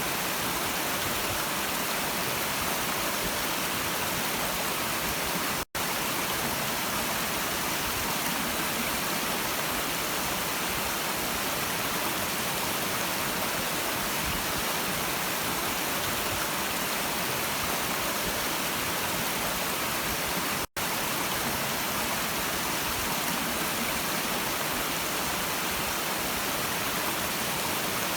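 Stream water flowing: a steady, even rush. The sound cuts out for an instant twice, once about six seconds in and again some fifteen seconds later.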